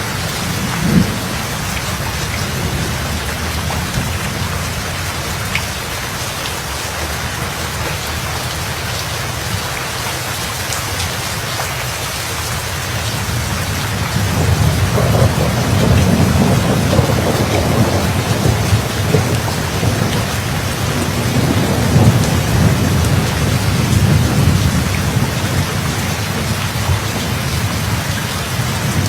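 Steady heavy rain on a surface with rolling thunder: a short crack about a second in, then a long low rumble that swells up about halfway through and carries on rumbling to the end.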